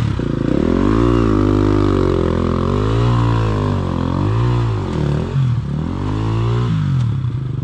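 Dirt bike engine revving up and down over and over, pitch rising and falling about once a second, as the bike is worked over rocks.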